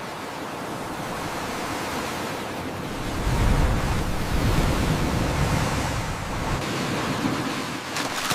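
Surf and wind: an even rushing noise, with a deeper rumble from about three to six and a half seconds in.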